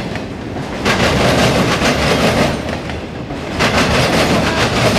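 Freight cars of a CSX mixed freight train rolling past, wheels clacking over the rails in quick clicks. The sound swells and dips about every three seconds as the cars go by.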